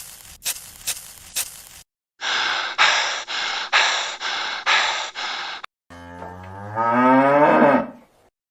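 A cow moos once, long and drawn out, rising then falling in pitch near the end. Before it come a few sharp clicks over a faint hiss, then a rhythmic noisy pulsing about twice a second.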